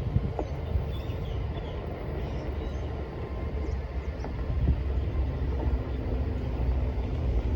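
Wind buffeting the microphone as a steady low rumble, with a faint steady hum underneath and a few short bird chirps about a second in.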